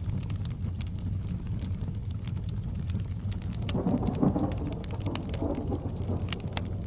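Fireplace crackling with sharp pops over a steady rain hiss and low rumble; about four seconds in, a roll of distant thunder swells, peaks briefly and fades over two seconds or so.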